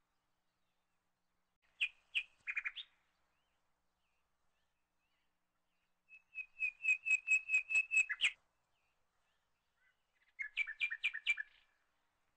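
A small bird chirping in short bursts: a few quick chirps about two seconds in, a fast run of about a dozen repeated notes around the middle, and another quick burst of chirps near the end.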